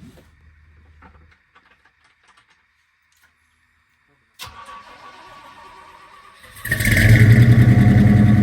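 A 1989 Chevy K5 Blazer's starter cranks the engine for about two seconds, then the engine catches and runs loudly: a cold start after sitting about six months.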